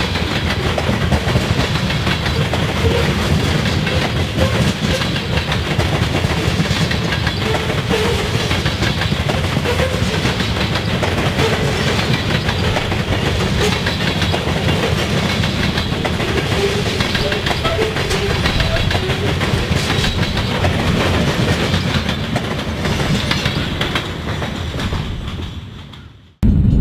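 Covered hopper cars of a passing freight train rolling by on the track, with a steady heavy rumble and fast irregular clicking of steel wheels on the rails. The sound fades out near the end.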